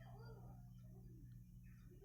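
Near silence: a steady low hum with faint voices in the background.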